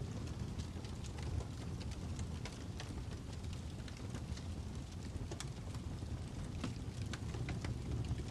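Fire crackling: irregular sharp snaps and pops scattered over a steady low rumble.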